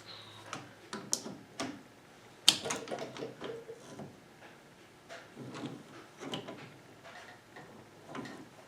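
Scattered clicks and knocks of metal parts and hand tools being handled during work on a VW front beam's link and king pins, one sharper knock about two and a half seconds in.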